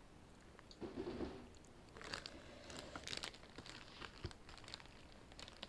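Quiet close-up eating of spicy instant noodles: chewing with short crisp, crunchy bursts about two, three and four seconds in, and a brief low murmur about a second in.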